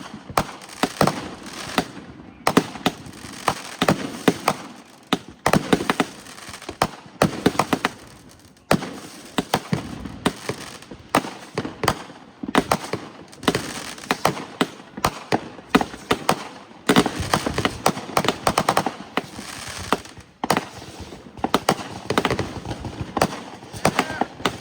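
Fireworks going off in a dense, irregular string of bangs and crackling pops, many in quick succession, with echoing rumble between them.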